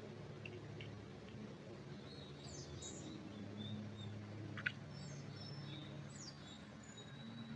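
Small songbirds chirping and trilling in short, high calls, with one sharper, louder note a little past halfway, over a low steady hum.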